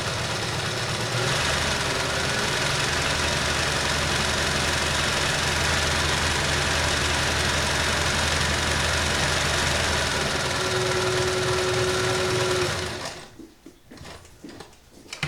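Kenmore 158.19311 sewing machine running steadily, stitching a reverse-feed cam pattern that feeds the fabric back and forth. It gets a little louder about a second in and stops about two seconds before the end, leaving faint handling sounds.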